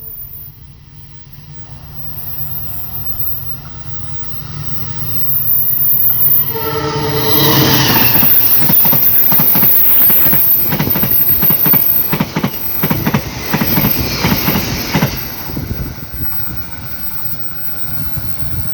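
A train approaching and passing. Its locomotive sounds a short horn blast about six and a half seconds in, then the wheels clatter rhythmically over the rail joints for several seconds before the sound eases off.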